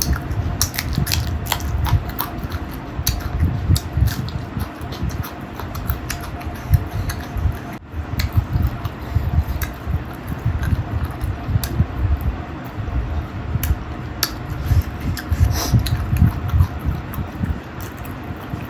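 Close-up eating sounds of someone chewing and sucking on spicy chicken feet, with many small wet clicks and smacks scattered throughout, over a steady background hum.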